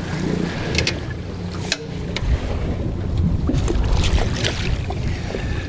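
Wind buffeting the microphone aboard a small boat drifting on the water, a steady deep rumble, with a few light clicks and knocks from handling in the boat.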